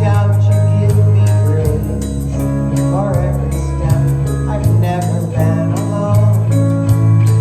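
Worship band music with sustained bass notes, a singing voice and a steady percussion beat.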